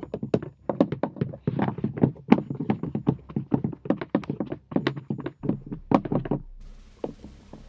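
Quick run of light tapping footsteps, several a second, that stops about six and a half seconds in.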